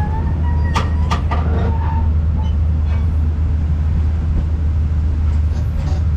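Passenger train running on the rails: a steady low rumble, with a few sharp clicks about a second in.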